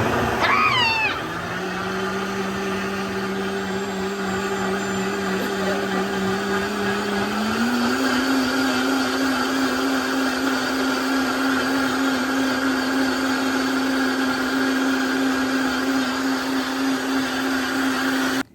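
Countertop blender running, blending cucumber and water into a juice. Its steady motor tone steps up in pitch about halfway through, and it cuts off suddenly at the end.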